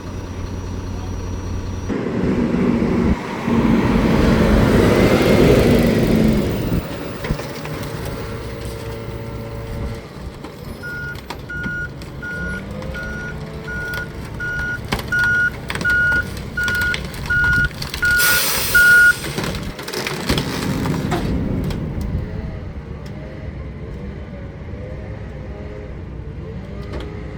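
Diesel engine of a McNeilus rear loader garbage truck running, louder for a few seconds early on. Then its reversing alarm beeps about a dozen times, a little under one beep a second, with a short sharp hiss of air near the end of the beeping. The engine grows louder again afterwards.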